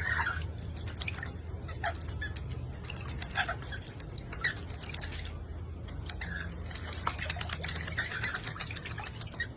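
Rapid, irregular small clicks and taps with a few short, soft chirps from a parrot, over a steady low hum.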